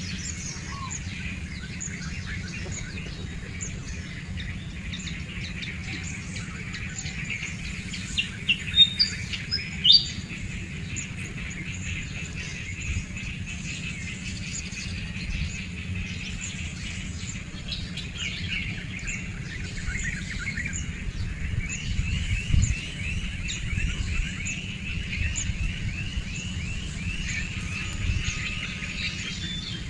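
Small birds chirping and calling, with a few louder sharp chirps about a third of the way in and a fast repeated trill later on, over a steady low rumble.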